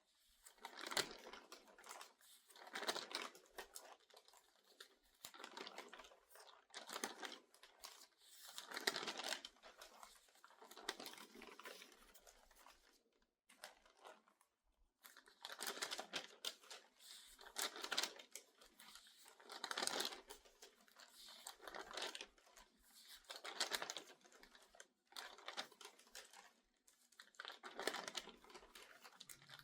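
Pages of a crinkled newspaper turned quickly, each turn a short crinkly rustle of paper, roughly one every two seconds, with a brief pause about halfway through.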